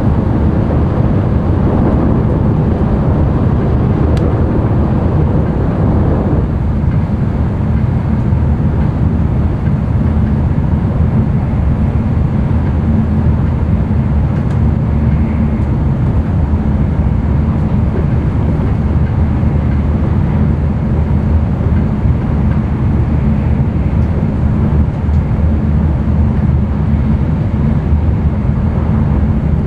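N700-series Tokaido Shinkansen running at speed, heard from inside the passenger cabin: a steady low rumble with a rushing noise over it. The rushing is stronger at first and eases about six seconds in.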